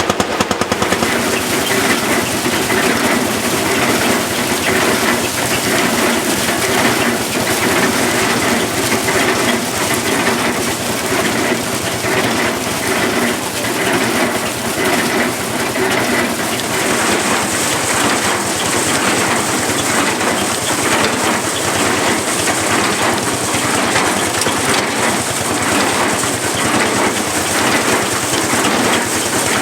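A belt-driven threshing box running, a steady rattling, rushing noise, over the beat of the Lanz Bulldog's single-cylinder engine. The engine's sharp, even beat stands out only at the very start.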